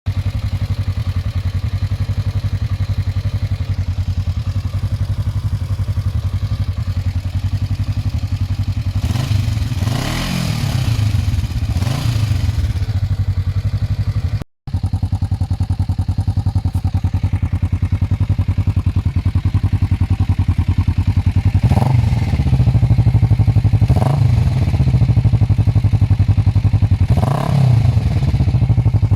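Kawasaki EN 500C parallel-twin engine idling and briefly revved, heard through two exhausts in turn: the stock silencer and an aftermarket Silvertail exhaust. The first take has two revs about ten and twelve seconds in. After a sudden cut about halfway, the second take has three short blips of the throttle.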